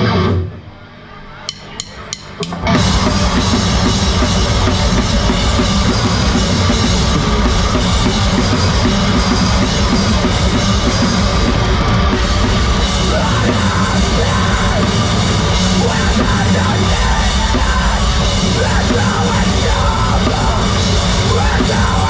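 Live heavy rock band starting a song: four quick clicks, then the full band comes in loud about two and a half seconds in, with drum kit, and plays on steadily.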